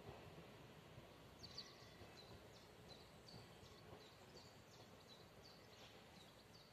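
Near silence with faint, high, repeated bird chirps, about two to three a second, starting about a second and a half in.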